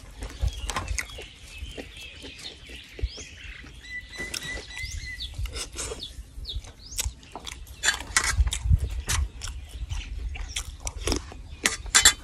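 Close-up eating sounds: wet chewing, lip smacks and mouth clicks, loudest in two bouts in the second half. Birds chirp faintly in the background.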